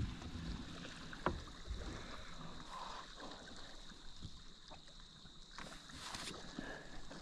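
Faint sounds of a kayak on calm water: soft water noise with a few light knocks against the boat, the sharpest about a second in.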